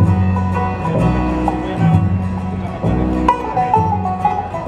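Bluegrass band playing an instrumental banjo break, quick plucked banjo notes over other plucked strings holding low notes beneath.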